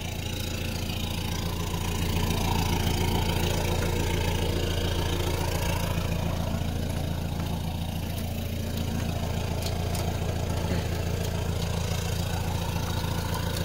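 Mahindra Roxor's 2.5-litre turbodiesel idling steadily, a little louder from about two seconds in.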